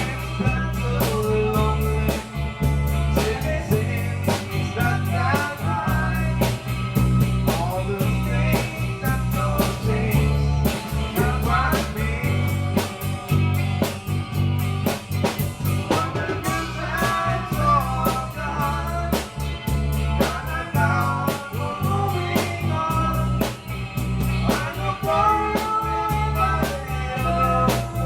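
A live rock band playing a song at rehearsal: drum kit keeping a steady beat, a bass line underneath and guitar carrying the melody.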